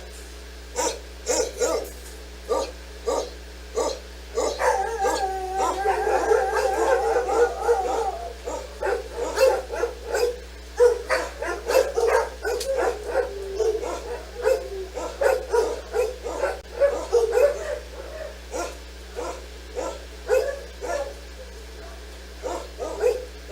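Dog barking repeatedly, one or two barks a second, with a held howl from about four and a half seconds in that lasts about four seconds.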